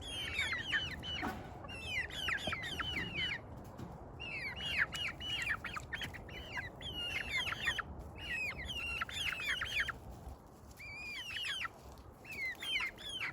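Young backyard poultry peeping as they settle to roost: many short calls that fall in pitch, coming in quick clusters with brief gaps.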